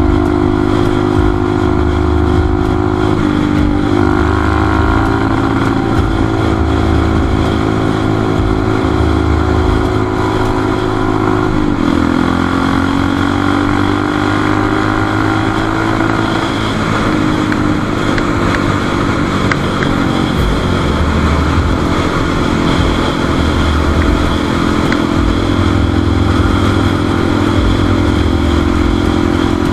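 Motorcycle engine running under way, its note steady for long stretches; the pitch steps about three seconds in and dips then climbs again around twelve seconds, as the throttle changes.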